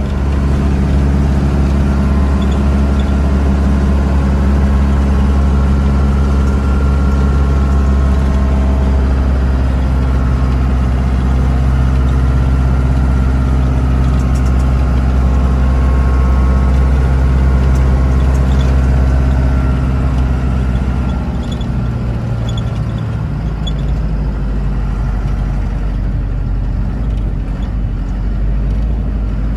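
Engine and road noise of an old FFR Land Rover, heard from inside the cab while driving at a steady speed. About two-thirds of the way through, the engine note drops and gets quieter.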